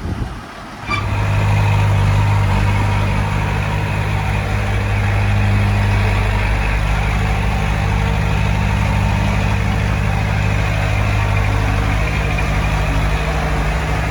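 Heavy diesel engine of earthmoving equipment running steadily at a constant low hum, which sets in about a second in after a brief dip.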